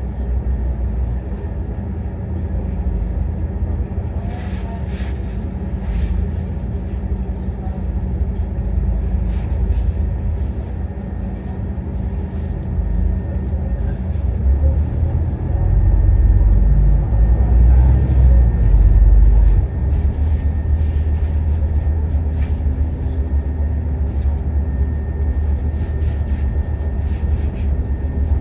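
Scania N230UD double-decker bus's diesel engine running as the bus drives, heard from on board, with frequent light clicks and rattles from the body. The engine grows louder for a few seconds about two-thirds of the way through, then settles back.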